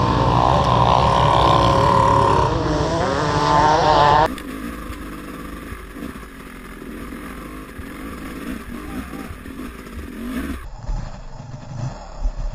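Dirt bike engine revving, its pitch wavering up and down, then an abrupt drop about four seconds in to a quieter, rough low rumble.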